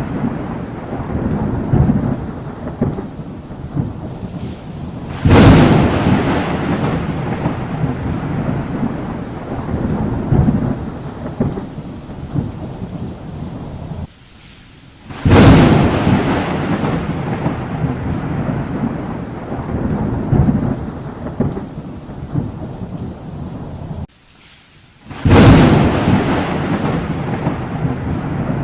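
Thunderstorm with steady rain: three sharp thunderclaps about ten seconds apart, each rolling into a long rumble that slowly dies away.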